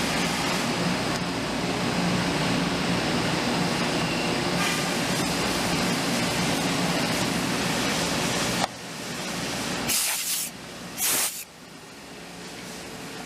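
Small CNC machine running steadily while it machines a wooden coaster-frame blank. It cuts out abruptly about two-thirds of the way through, followed by two short, loud hisses about a second apart.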